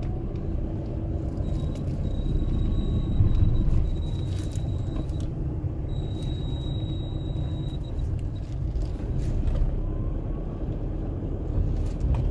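Steady low rumble inside a VW Golf Mk5 Plus cabin, with a thin, high squeak that comes in twice for a couple of seconds each time: the ventilation blower squeaking at a low fan setting.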